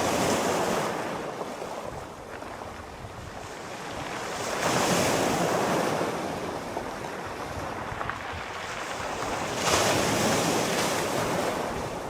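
Sea waves breaking and washing in, three surges about five seconds apart, each swelling quickly and then fading back into a steady hiss of surf.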